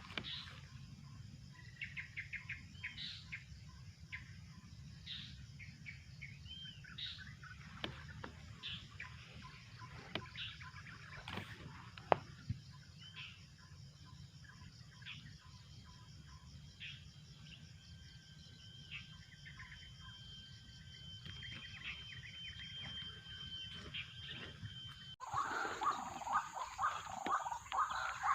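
Wild birds calling: scattered short chirps and whistles, with a thin steady tone for several seconds in the middle. About 25 seconds in the sound changes abruptly to louder, rapidly repeated calls.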